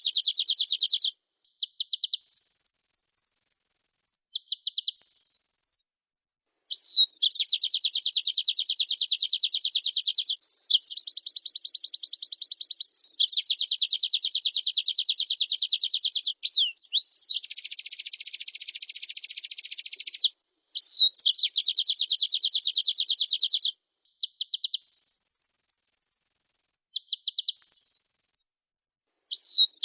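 White-eye (pleci) songbird singing in rapid, high-pitched trills lasting a few seconds each, separated by short pauses. Some trills are pitched much higher than the rest.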